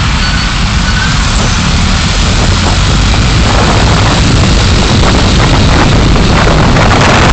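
Car driving, with engine rumble and road and wind noise picked up by the dashcam. The hiss grows louder from about halfway in.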